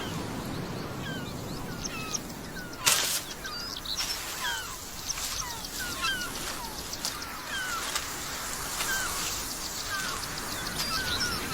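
Natural ambience of many small birds calling: short chirps and quick sliding notes scattered all through. A single short swish of noise cuts in about three seconds in.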